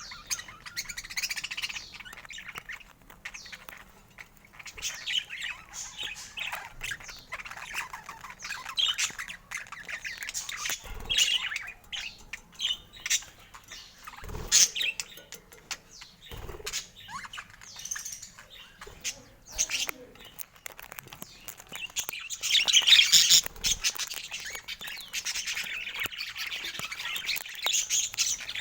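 Budgerigars chattering: a fast, continuous run of chirps, warbles and squawks, loudest a little past two-thirds of the way through, with a few short knocks.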